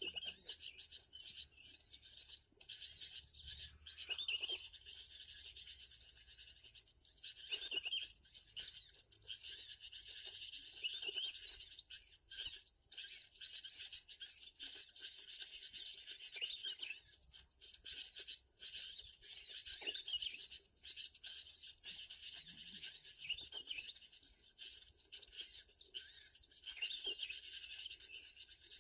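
A busy, continuous chorus of small birds chirping and twittering in high, rapid calls, with no pause through the whole stretch.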